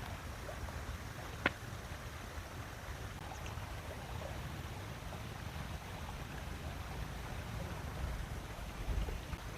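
Steady low rumble of outdoor ambience, with a single sharp click about one and a half seconds in and a few faint, short high chirps.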